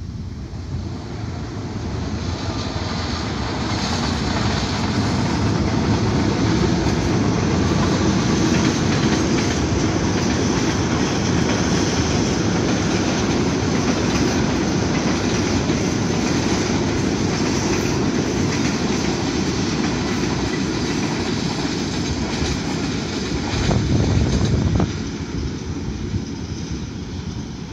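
Diesel-hauled passenger train passing along the track, the locomotive and coaches running by. The sound builds over the first few seconds and stays loud. Near the end a brief, louder low rumble cuts off suddenly, and the train then fades.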